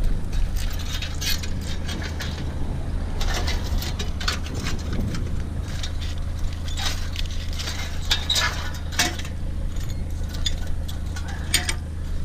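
Small pieces of scrap metal, including cast aluminium, clinking and rattling as they are handled and sorted, with many irregular sharp clinks over a steady low hum.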